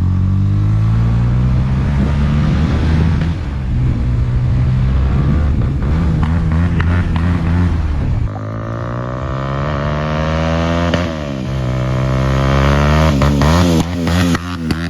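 220 cc motorcycle with an aftermarket Akrapovic exhaust running loud, then accelerating through the gears. The engine note climbs from about eight seconds in, drops at a shift near eleven seconds, then climbs again before easing near the end.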